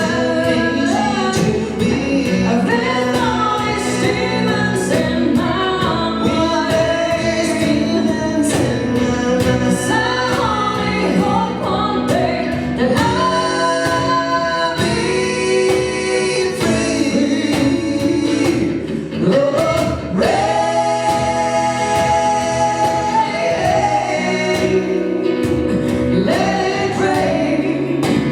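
Live band performing a gospel-style song, with a lead singer and backing vocalists singing over drums and keyboards.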